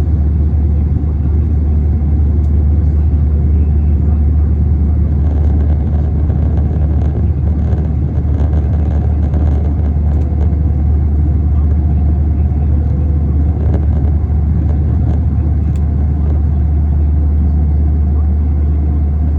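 Cabin noise inside an Airbus A321 airliner: a loud, steady low rumble of the engines and airflow, with a few faint ticks and rattles from the cabin.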